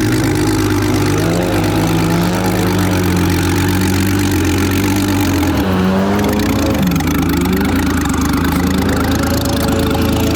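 Turbocharged RB20E straight-six of an R32 Nissan Skyline held at high revs in first gear during a burnout, the revs wavering up and down, with the rear tyres spinning.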